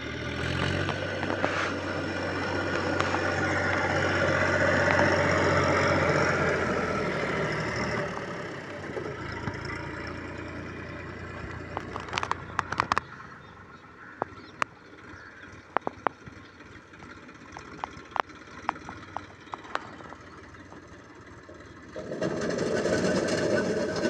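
Wheat-harvesting machine's engine running loudly, then dropping to a quieter hum broken by scattered sharp clicks, before the loud running comes back near the end.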